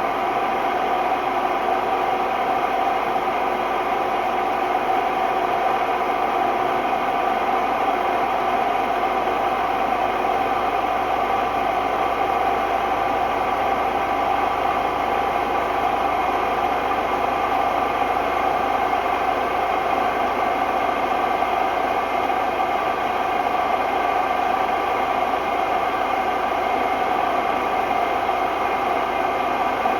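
Hotpoint Ultima WMD960 washing machine on a steady spin, giving a loud, steady roar with a ringing whine in it: the sign of bad drum bearings.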